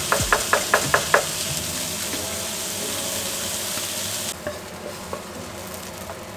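Paella of rice, clams and squid sizzling in a roasting pan on a gas stove as it is stirred, with a quick run of sharp clicks in the first second. The sizzle turns quieter about four seconds in.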